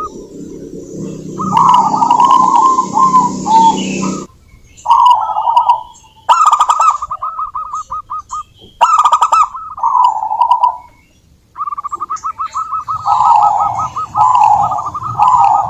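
Zebra doves cooing: repeated phrases of quick staccato notes that run into a rolling, bubbling coo, with short pauses between phrases. A low background noise sits under the first four seconds and cuts off suddenly.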